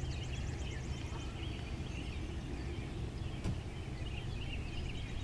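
Outdoor birdsong: several small birds chirping, with a rapid high ticking trill near the start, over a steady low rumble of wind on the microphone. A single short click about three and a half seconds in.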